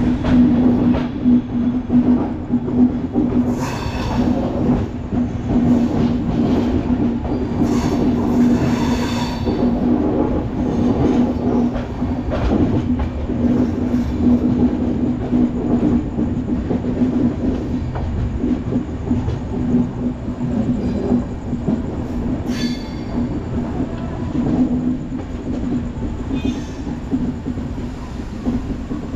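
Train running on the rails: a steady low hum under a constant rumble and rattle of wheels, with a few short high-pitched squeals on top.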